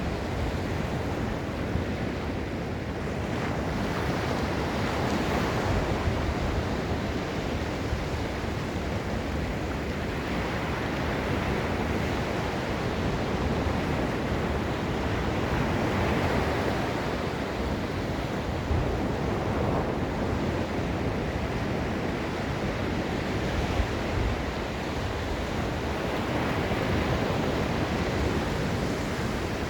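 Ocean surf breaking and washing on a sandy beach, a continuous rush that swells and eases every few seconds, with some wind on the microphone.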